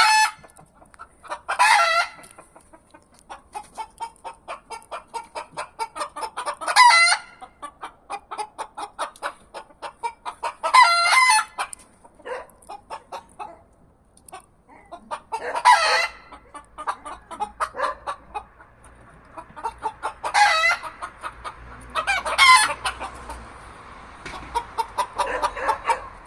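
Chickens: roosters crow about six times, spread out, while a run of short, rapid clucking goes on between the crows.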